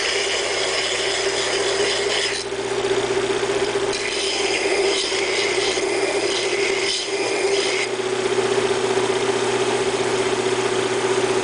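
Double wheel hollow grinder running with a steady motor hum. Twice, for a few seconds each, a higher hiss joins it: steel being ground against the belt.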